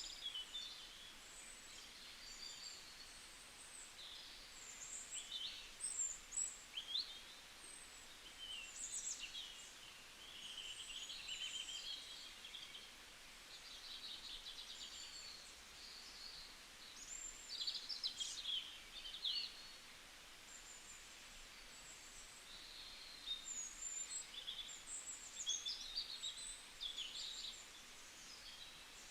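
Several wild birds singing, with short chirps and trills overlapping throughout, over a faint outdoor hiss.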